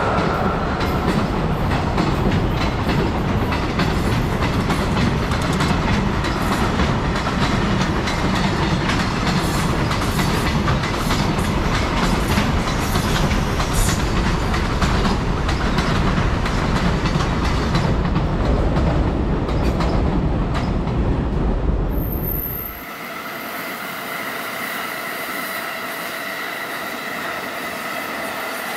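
Freight train of container flatcars rolling past, a steady loud clatter of wheels over the rail joints. About 23 seconds in it gives way abruptly to a quieter steady hum with a few high held tones.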